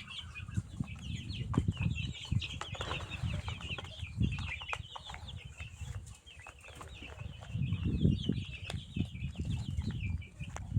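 A flock of poultry chicks peeping continuously, many high chirps overlapping, over low rumbling and scattered soft knocks.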